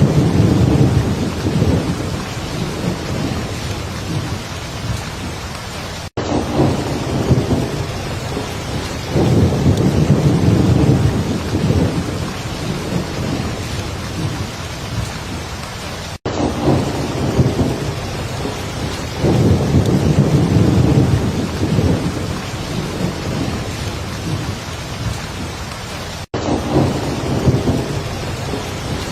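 Heavy, steady rain with low rolling rumbles of thunder swelling and fading about every ten seconds. The sound cuts out for an instant three times, about ten seconds apart.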